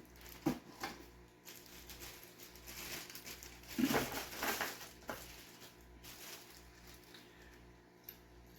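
Plastic parts of a gravel vacuum kit being handled: scattered clicks and knocks with some crinkling. The loudest knock comes about four seconds in.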